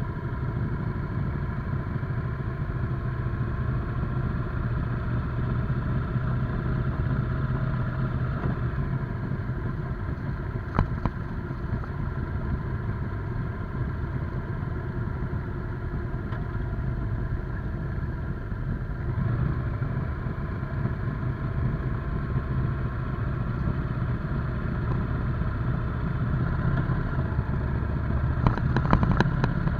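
Motorcycle engine running at a fairly steady speed while riding, with one sharp click about eleven seconds in and a few more clicks near the end.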